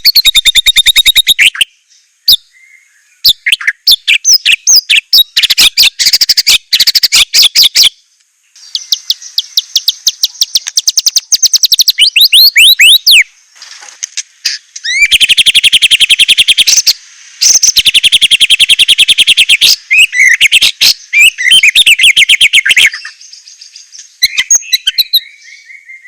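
White-rumped shama (murai batu) singing loud, fast trills and rapidly repeated notes in several bursts with short pauses between them, its song packed with varied phrases.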